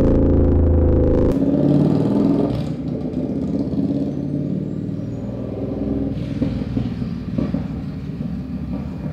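Triumph Scrambler 1200 motorcycle's parallel-twin engine running at a steady pitch, then dropping off suddenly about a second in and carrying on lower and uneven, with a few knocks and rattles.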